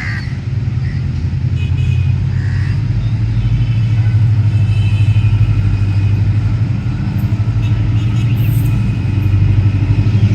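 Diesel locomotive engine running with a low, rapidly pulsing drone that grows louder over the first few seconds and then holds steady.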